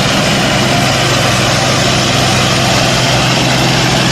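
Massey Ferguson 240 tractor's three-cylinder diesel engine running steadily.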